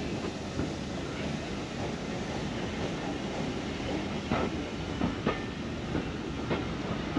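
Steam-hauled passenger carriages rolling along a heritage railway line, with a steady rumble and a few wheel clicks over rail joints in the second half.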